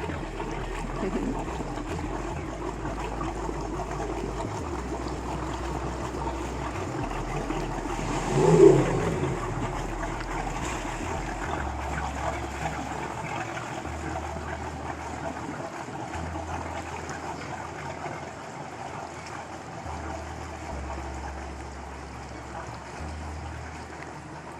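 Twin inboard engines of a 1995 Carver Santego 310 cabin cruiser running as the boat motors away, a steady sound that slowly fades, with water sounds alongside. A short, louder pitched sound comes about eight and a half seconds in.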